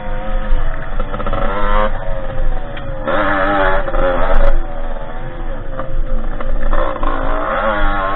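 Derbi 50cc two-stroke engine on a small dirt bike being ridden, revving up and down again and again, its pitch rising and falling, with the loudest revs about three and seven seconds in.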